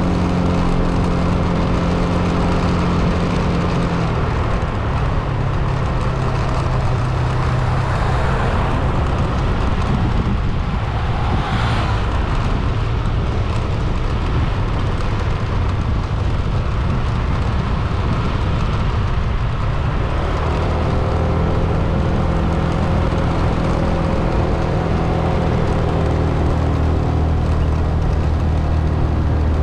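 A car being driven: a steady engine hum over constant road and tyre noise. The engine note drops about four seconds in and rises again around twenty seconds, with a brief rushing swell near eleven seconds.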